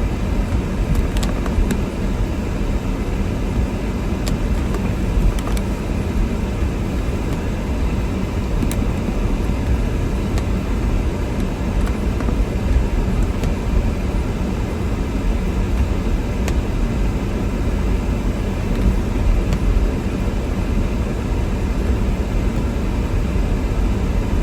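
Steady road and engine noise of a car driving on snowy roads, heard from inside the cabin, with a few faint ticks here and there.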